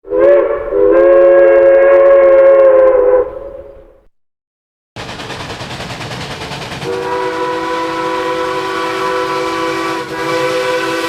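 A train whistle sounds a loud chord of several notes for about three seconds, then dies away. After a second of silence a train is heard running with a steady rushing noise. About two seconds later its whistle sounds a long, held chord.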